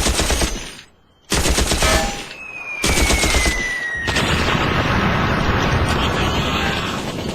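Machine gun firing: three short bursts of rapid shots, then a long sustained burst from about four seconds in.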